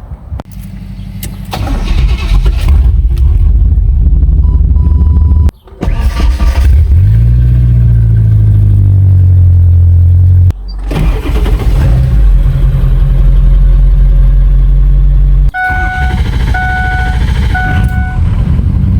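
Pickup truck engines starting and running as the trucks are driven, in several edited stretches, one with a rising rev. Near the end a vehicle warning chime beeps three times over the idling engine.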